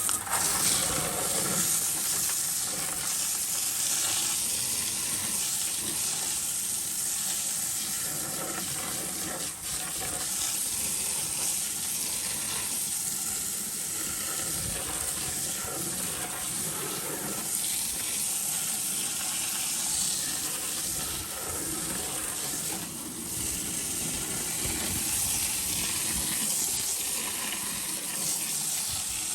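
Water spraying hard and steadily onto a truck as it is washed, a constant hiss.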